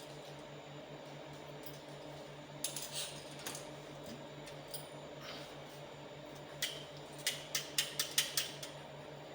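Light metallic clicks and clinks of small parts being handled, a few at first and then a quick run of about seven clicks, roughly four a second, near the end, over a steady low hum.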